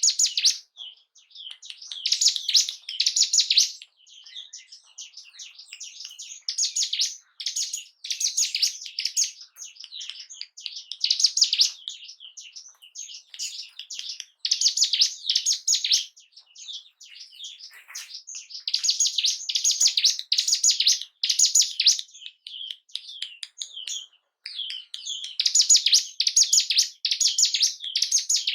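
Ciblek gunung, a mountain prinia, singing: loud bursts of rapid, high, chattering chirps about one to two seconds long, repeated every few seconds with quieter chirps between them.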